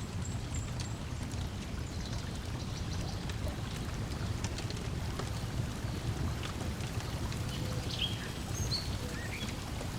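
Lakeside ambience: a steady low wash of water lapping, scattered small pops and crackles from a wood fire, and a few short bird chirps, the clearest about eight seconds in.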